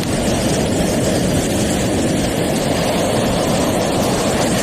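Steady, loud wind buffeting the microphone: an even rushing rumble with no distinct events.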